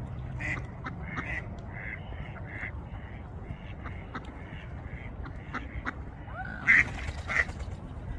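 Ducks quacking repeatedly, short calls one after another, with two louder calls near the end.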